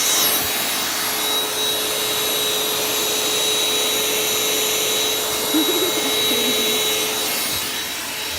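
Cordless vacuum cleaner running steadily while vacuuming a car's interior: a constant motor whine over the rush of suction.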